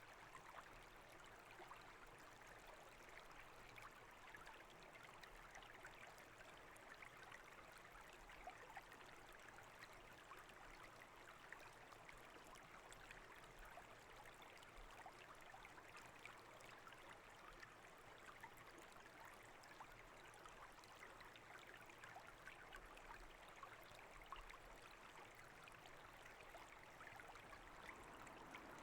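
Faint, steady running water of a brook, with a fine crackle of small splashes.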